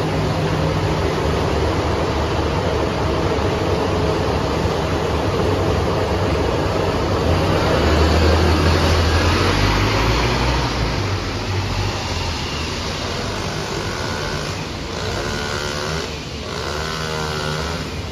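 Scania K230UB Euro V bus running on the road, its engine getting louder about halfway through as it pulls, then easing off. Near the end a wavering high-pitched squeal comes and goes a few times.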